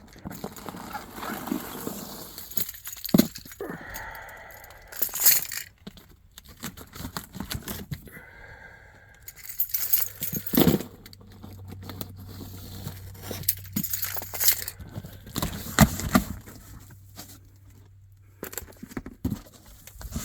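Scattered knocks, clatter and rustling as boxed fireworks are handled and moved about.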